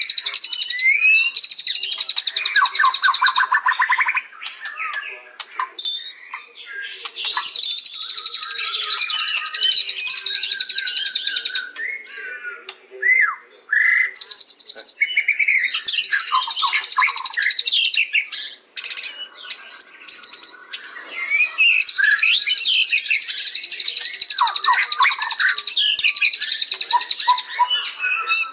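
White-rumped shama (murai batu) singing. Several runs of rapid, buzzy high trills, each lasting two to five seconds, alternate with varied whistled notes and phrases at a lower pitch.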